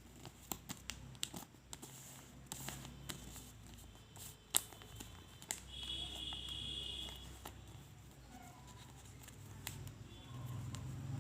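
A sheet of A4 paper being handled and folded by hand: light rustling with scattered sharp crackles and clicks of the paper.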